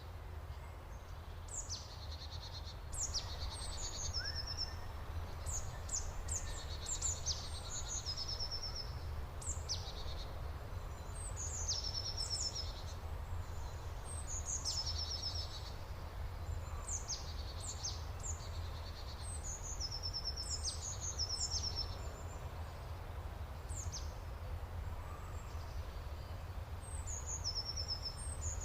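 Songbirds singing: short high phrases of chirps, downslurred notes and quick trills, repeated every second or two, over a steady low rumble.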